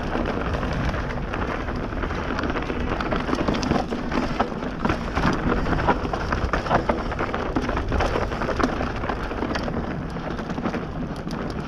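Bird Zero AM hardtail mountain bike riding down a dry dirt trail: a continuous rush of tyre noise, broken by frequent short clatters and knocks as the bike hits roots and bumps.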